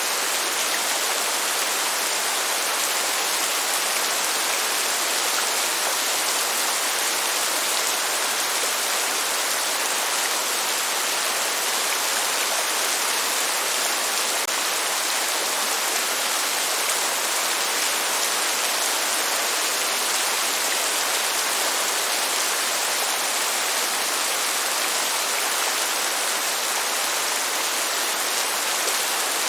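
Steady rainfall, an even hiss with no breaks or changes in level, and no thunder.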